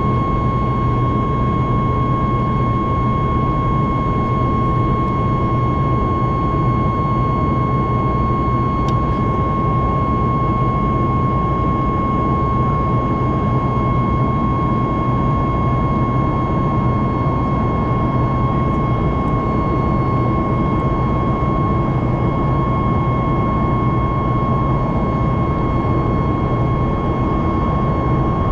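Boeing 737 MAX 8's CFM LEAP-1B jet engines running at a steady high power, a dense rushing roar with a constant high whine held at one pitch throughout.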